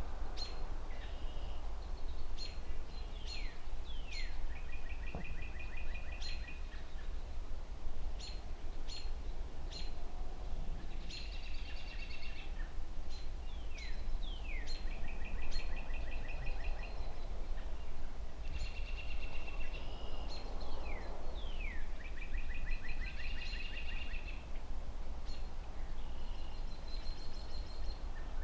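Birds chirping throughout, with short rapid trills and quick downward-sweeping calls, over a steady low rumble of distant city traffic.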